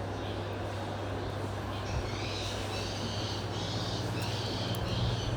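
A bird chirping in a quick repeated series, starting about two seconds in, over a steady low hum.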